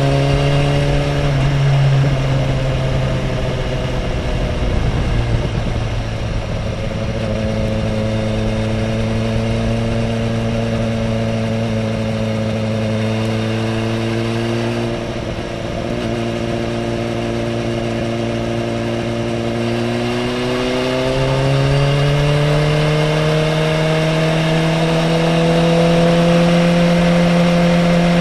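Sport motorcycle engine heard from on board at speed, with a rush of wind. The engine note drops in the first couple of seconds, holds steady through the middle, then climbs again a little after twenty seconds in and stays at the higher pitch.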